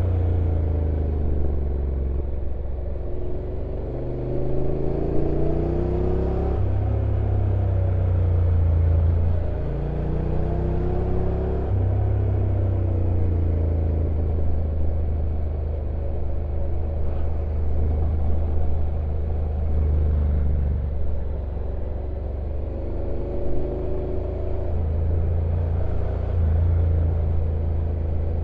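Honda NC750X's parallel-twin engine on its stock exhaust, ridden downhill: the revs rise and fall again and again, with sudden steps in pitch as the DCT gearbox changes gear.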